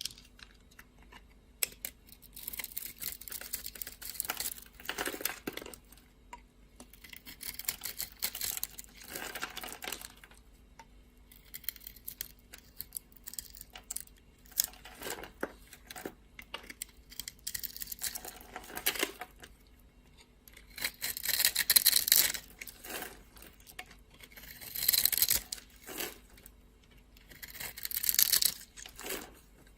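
A knife cutting and scraping through dry soap: a series of crisp, crunchy strokes, each a second or two long, with the loudest ones near the end.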